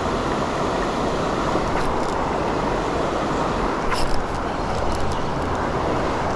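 Steady rush of creek water pouring over a dam. A few faint clicks come about two and four seconds in.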